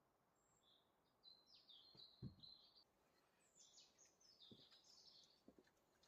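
A small songbird singing faintly: two quick chirping phrases a second or so apart, with a few soft low knocks beneath.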